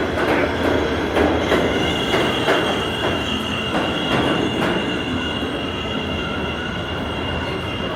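New York City subway train moving through the station, its steel wheels giving a steady high squeal on the rails over a constant rumble. Clacks from the wheels crossing rail joints come through in the first few seconds.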